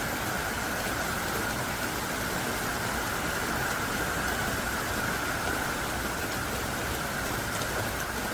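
Heavy, pouring rain falling steadily, an even, unbroken rush of water.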